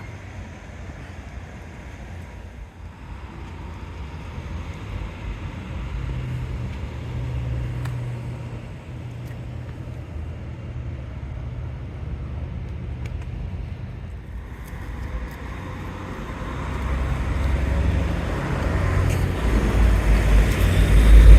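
Motor vehicle traffic: a low engine rumble that grows much louder near the end.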